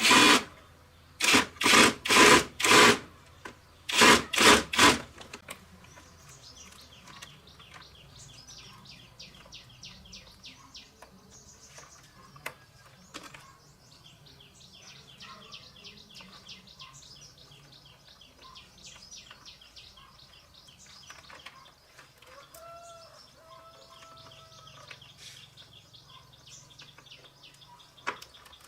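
A quick series of about eight short, loud noisy blasts in two groups during the first five seconds, then faint rapid bird chirping for the rest.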